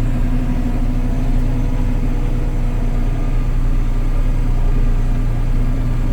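Kubota L3560 tractor's diesel engine running steadily at an even speed.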